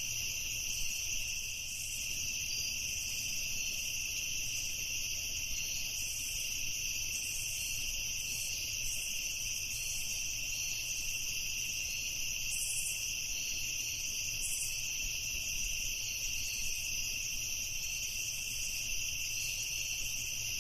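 Crickets chirping at night in a steady, continuous high chorus.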